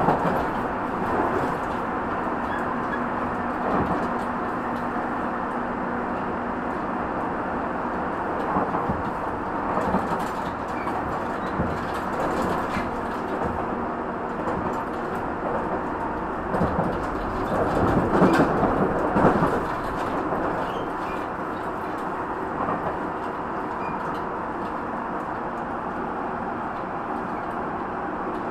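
Tobu 50050-series electric train (set 51051F) running at speed, heard inside the car: a steady rumble of wheels on rail, with louder clattering now and then, the strongest about two-thirds of the way through.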